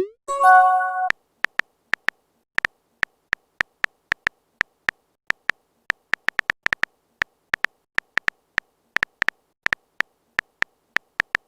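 A short rising swoosh and a brief electronic chime, like a messenger's message sound, about the first second in. It is followed by a run of sharp, irregular phone keyboard typing clicks, several a second.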